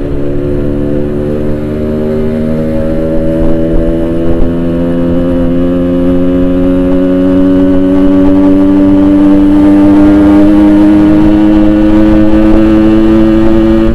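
Yamaha RX-King 135cc two-stroke single-cylinder engine running through a Boban aftermarket exhaust while the bike is ridden. The engine note climbs slowly and steadily in pitch as the bike gathers speed, getting slightly louder.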